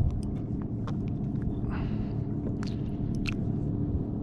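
Steady low outdoor rumble with a faint hum, overlaid by scattered light clicks and knocks, typical of a small caught fish being handled and unhooked on a kayak.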